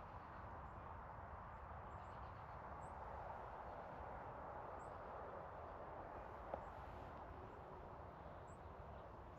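Faint outdoor wetland ambience: a steady hiss and low rumble, with several brief, very high, thin bird chirps scattered through it and one soft click about six and a half seconds in.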